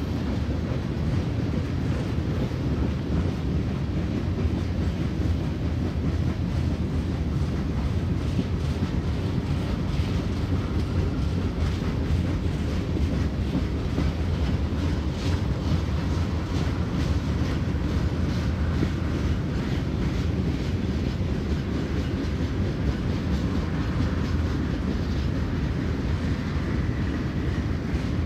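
Freight train's tank cars rolling past: a steady low rumble of steel wheels on rail, with repeated clicks as the wheels pass over rail joints.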